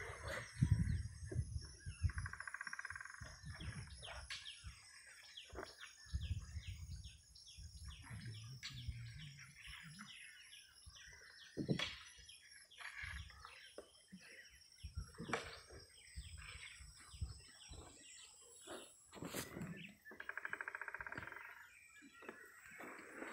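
Wild birds calling from the riverside forest: many short chirps scattered throughout, with a buzzy, rasping call about two seconds in and again near the end.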